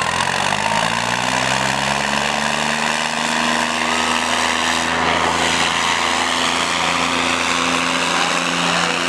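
Diesel tractor engines revving up over about two seconds, then held at high, steady revs under heavy load as the tractors pull against each other in a tug-of-war.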